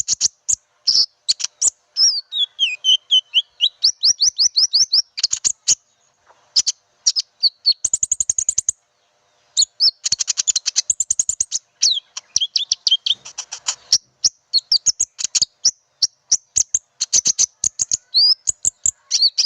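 Konin bird calls used as a bird-luring call: rapid, high-pitched chirps and trills in quick bursts, with a few brief pauses, including one about six seconds in and one about nine seconds in.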